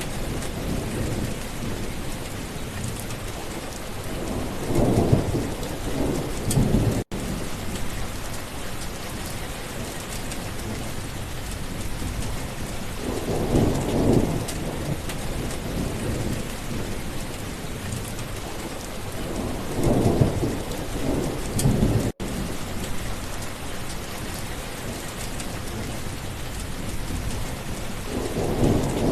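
Steady rain falling, with rolling thunder rumbling several times, each peal swelling for a second or two. The sound cuts out for an instant twice.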